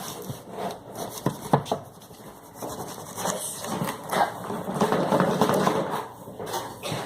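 Cardboard box and packaging being handled while pulling a coffee machine out of its box: a few knocks and bumps, then a longer stretch of rustling and scraping.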